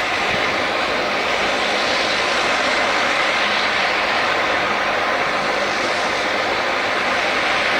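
Airliner engines running, a steady rushing noise with no clear change in pitch.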